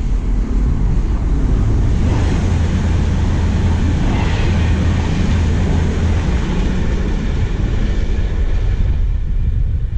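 Electric passenger train passing, its rumble building from about two seconds in, loudest around four seconds, then easing off. Wind buffets the microphone throughout.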